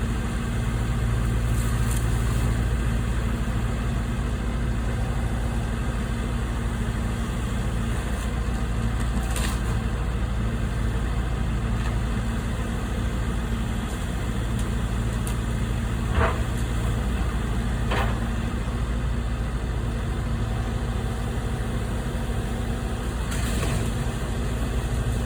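A motor vehicle engine idling with a steady, even hum, with two short knocks about two seconds apart past the middle.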